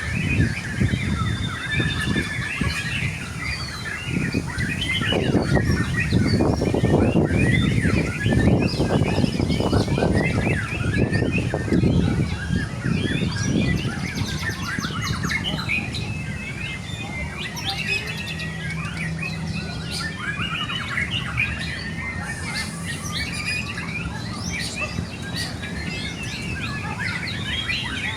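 White-rumped shamas (murai batu) singing, a dense overlap of quick whistled phrases and chirps. A low rumbling noise sits underneath through roughly the first half.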